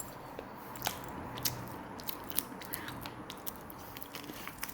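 A person chewing a bite of peach-flavoured mooncake close to the microphone: soft mouth sounds with scattered small clicks.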